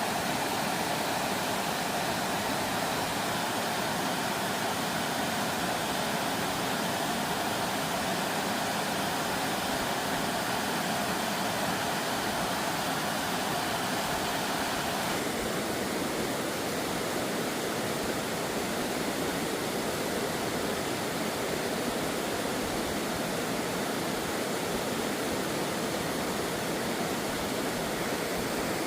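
Steady rushing of flowing stream water. The tone of the rush changes abruptly about halfway through.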